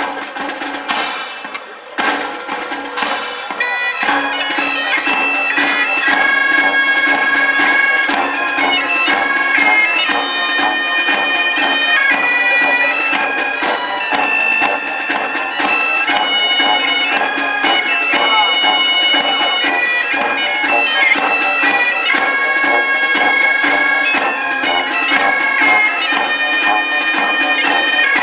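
Live music: a piped melody over a steady held drone, with drums, settling in after a short drummed opening a few seconds in.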